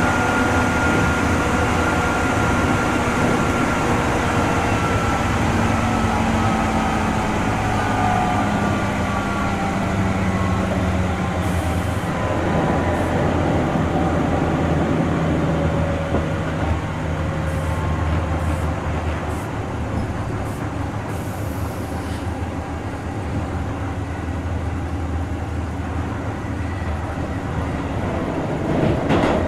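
Running sound of a Keihan 2600 series 0-subseries electric train, with steady wheel-on-rail noise. The motor and gear whine falls slowly in pitch over the first dozen seconds as the train slows. The noise eases somewhat in the second half and grows louder again at the very end.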